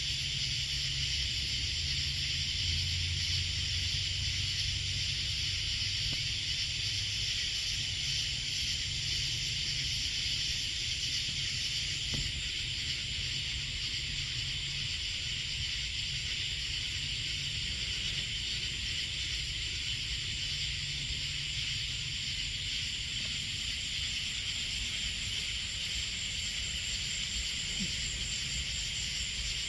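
Steady high-pitched chorus of night insects shrilling, with fast pulsing in the highest notes. Underneath runs a low rumble, strongest in the first few seconds.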